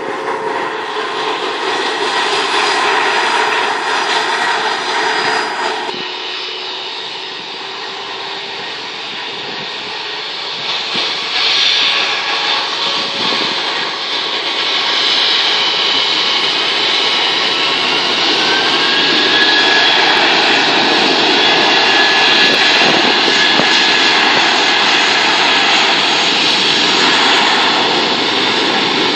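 Jet aeroplane engines at takeoff thrust: a loud, steady rushing noise that grows louder in the second half, with a faint whine rising in pitch about two-thirds of the way through.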